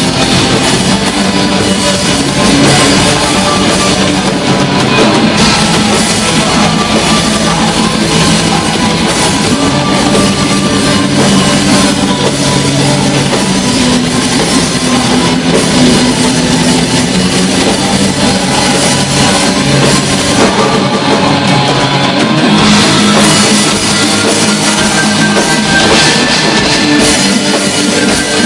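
Black metal band playing live: distorted electric guitars and a drum kit, loud and unbroken.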